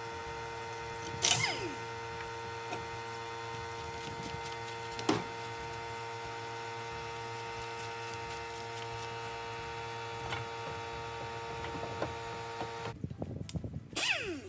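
Steady machine hum made of several even tones, with two sharp metallic knocks that ring briefly, about a second in and about five seconds in. The hum cuts off suddenly near the end, followed by a short burst of clatter.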